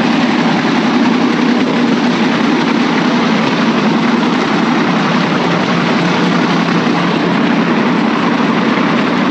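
The small motor of a bamboo train (norry) running steadily as the bamboo platform travels along the rails, a constant low engine hum under a steady rushing noise.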